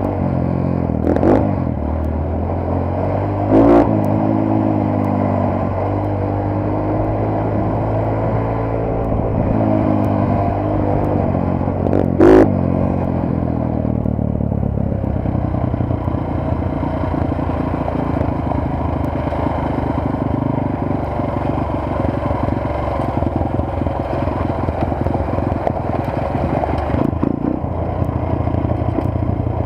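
Motorcycle engine running under way, its pitch rising and falling with the throttle through the first part, then holding steadier. Three short sharp knocks cut through, the loudest about twelve seconds in.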